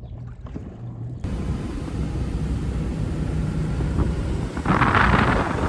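Motorboat engine running with a steady low hum, joined about a second in by loud rushing wind and water noise. The rush surges louder near the end.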